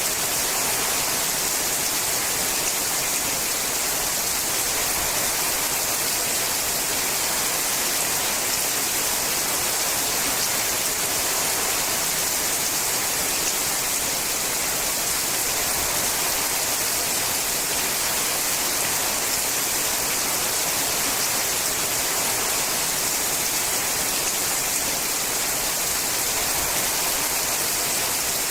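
Steady rain falling on a sheet-metal roof, an even hiss with no breaks or separate drops standing out.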